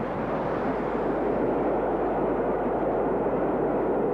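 Steady rushing noise of a passing train, even and unbroken, with no distinct exhaust beat.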